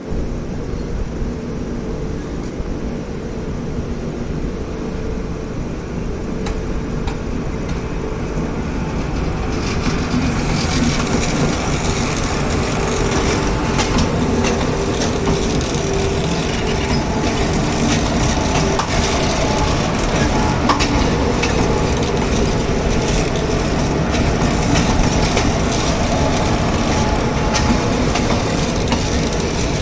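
Train running on the rails, a continuous rumble with wheel clatter and a steady hum over it. About ten seconds in the sound turns brighter and a little louder, then stays that way.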